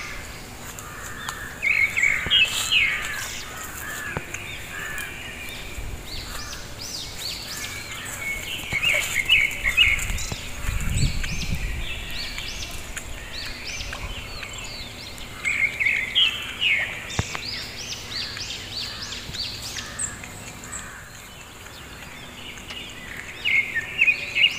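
A bird singing a quick run of high chirps, the phrase repeating about every seven seconds over steady outdoor background noise. A brief low rumble comes about halfway through.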